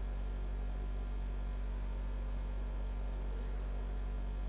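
Steady electrical mains hum with a faint hiss, a low buzz with even overtones that does not change.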